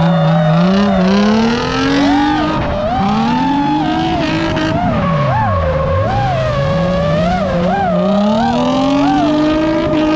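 Drift car engine revving up and down while its tyres squeal continuously, the squeal wavering in pitch as the car slides.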